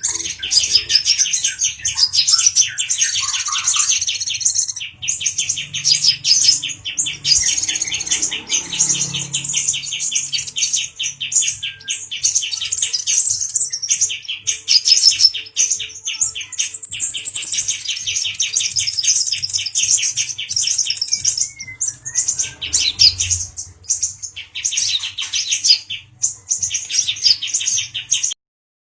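Male brown-throated sunbird (kolibri ninja) singing agitatedly: long, fast trills of repeated high notes with sharper higher notes over them, broken by short pauses.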